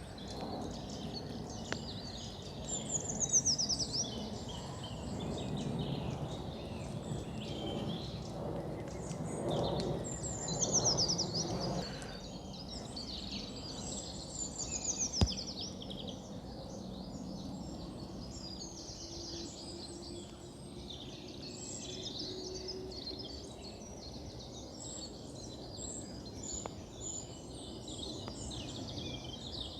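Eurasian treecreeper singing: three high, thin trills that fall in pitch, a few seconds apart, followed by scattered chirps of other birds over a steady low background rumble.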